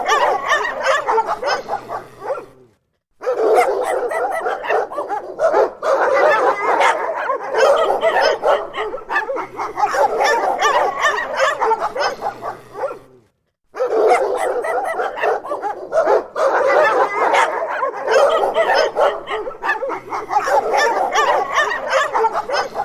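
Several dogs barking angrily in a dense, overlapping din. It breaks off into silence twice, briefly, about three seconds in and again about thirteen seconds in.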